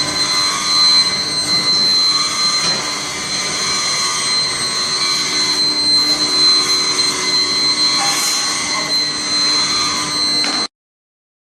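Crucible melting furnace running: a steady high-pitched whine over a rushing noise, which cuts off abruptly near the end.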